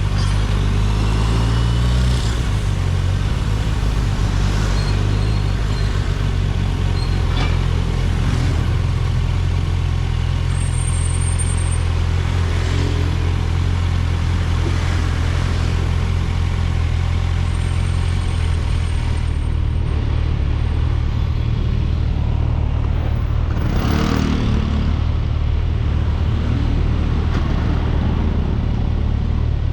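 Kawasaki Ninja 1000SX's inline-four engine running steadily while the bike is ridden, with a shift in its note about two seconds in.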